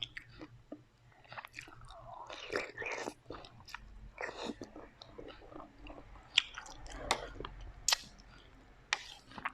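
Close-miked chewing and biting of food, with several sharp, crisp crunches in the second half.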